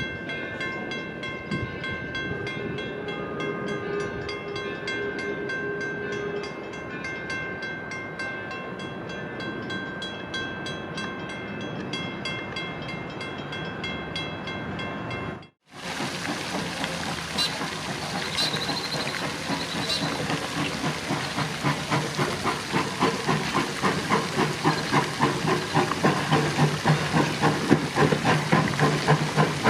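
Steam train running, with a steady whine of several high tones over the rumble for the first half. After a sudden break about halfway, Torch Lake, an 1873 Mason Machine Works articulated steam locomotive, chuffs and hisses in an even rhythm, growing louder toward the end.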